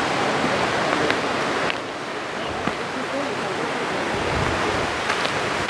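Steady rush of water from a mountain creek, with its level easing a little about two seconds in.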